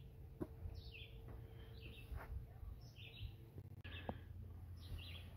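A bird calling faintly, short high chirps repeated about once a second, over low background noise.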